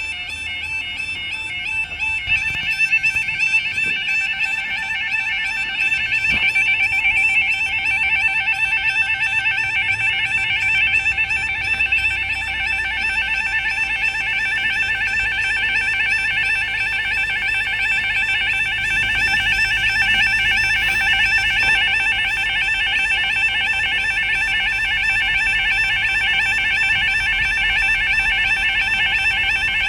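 Level crossing warning alarms at an automatic half barrier crossing, sounding continuously as several overlapping, rapidly warbling tones. Another tone grows stronger about two seconds in. One alarm is water-damaged and gives a very fast warble, like a fire alarm.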